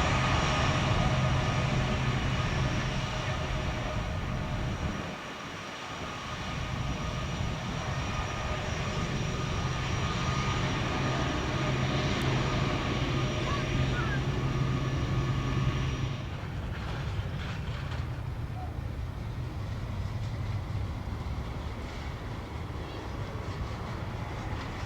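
Jet airliner engines running with a steady whine over a rush of noise, loudest at first. The sound dips briefly about five seconds in and falls to a lower level about sixteen seconds in.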